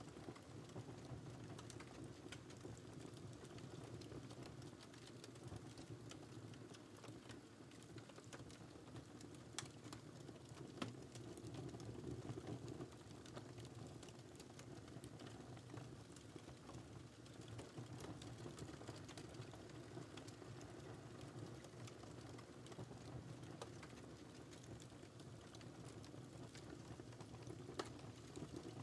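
Wood fire burning faintly: a low, steady rush of flames with irregular small crackles and an occasional sharper pop.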